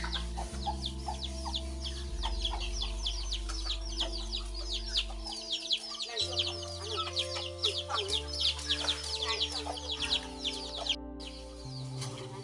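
Many small birds chirping rapidly, a dense stream of short high downward-sweeping notes, over background music with slow sustained low notes. The chirping drops out for a moment near the end.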